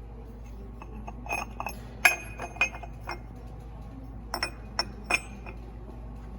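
Sharp metal-on-metal clinks and taps, about eight of them at irregular intervals with the loudest about two seconds in, as parts and tools are handled while fitting a timing gear on the John Deere 4250 engine set at top dead centre.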